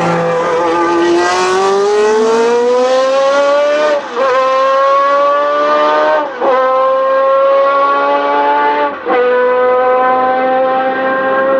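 Race car engine accelerating hard, its note climbing steadily and dropping briefly at three upshifts, about 4, 6.5 and 9 seconds in.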